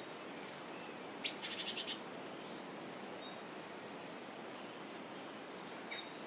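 Small birds calling against a steady outdoor hiss: a quick rattling trill of about eight notes a little over a second in, and a few brief, high, falling chirps later.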